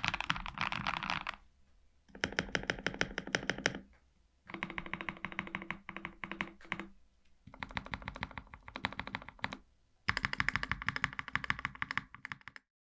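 Custom mechanical keyboard with lubed Gazzew Boba U4T linear switches being typed on quickly in five runs of rapid keystrokes with short pauses between them.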